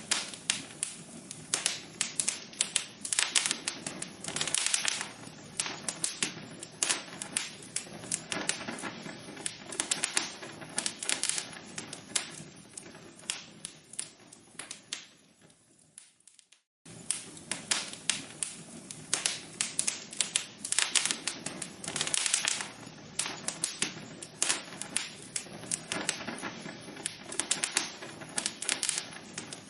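Wood logs burning in a fireplace, crackling with a dense, irregular run of sharp pops. The crackling fades and cuts out for under a second about sixteen seconds in, then starts again.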